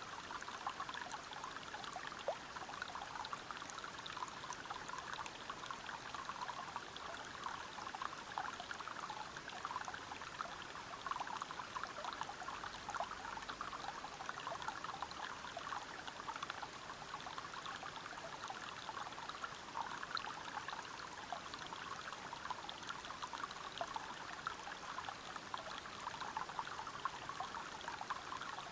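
River water flowing and splashing over rocks, a steady babble made of many small splashes with no change in level.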